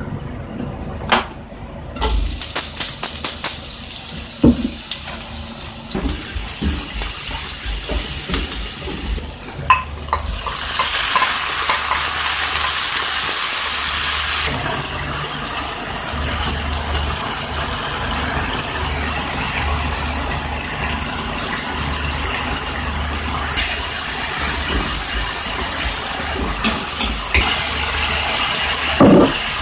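Sliced long green onion and tuna sizzling in oil in a frying pan, a steady loud hiss that starts about two seconds in, with sharp popping ticks at first and shifts in level as the tuna is added with its liquid and stirred with a wooden spatula.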